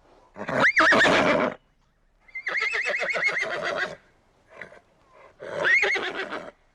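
Horse whinnying three times in a row, each whinny a high, quavering call of about a second, the middle one longest.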